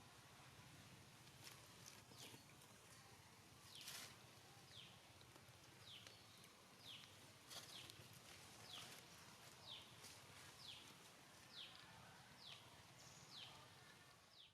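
Faint bird call: a short falling whistled note repeated about once a second, starting a few seconds in, over a low steady background hiss.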